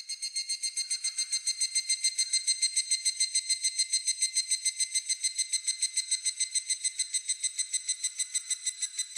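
A higurashi (evening cicada) calling: a rapidly pulsing, high-pitched ringing trill of about eight or nine pulses a second, swelling in at the start and then holding steady.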